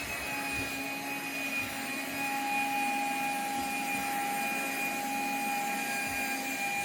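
Cordless handheld vacuum cleaner running at a steady speed, with a steady high-pitched motor whine.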